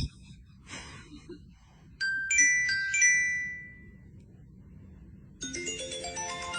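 Ringtone-style electronic chimes: a few bright ringing notes that die away about two seconds in, then from about five seconds in a continuous stepping melody of notes.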